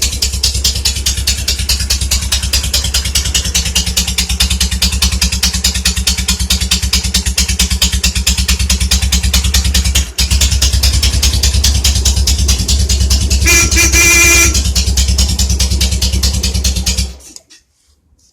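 K-750 motorcycle's flat-twin engine idling with a rapid, even beat, broken for a moment about ten seconds in. A brief steady tone sounds for about a second near three-quarters through, and the engine sound stops abruptly near the end.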